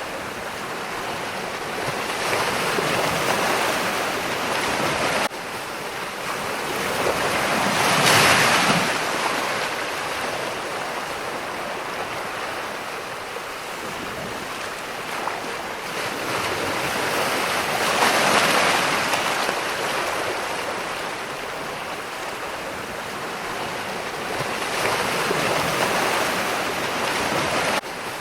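Ocean surf: waves rolling in and breaking, swelling and fading about four times, with the loudest wash about eight seconds in.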